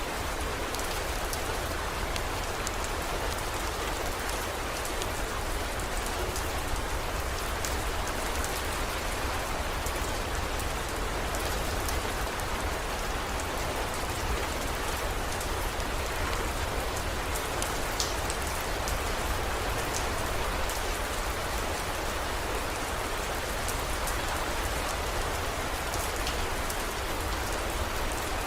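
Steady heavy rain with many small drop ticks, over a constant low rumble.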